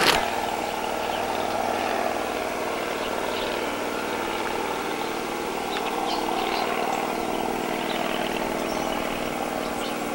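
Steady motor-vehicle engine drone with an even, constant hum.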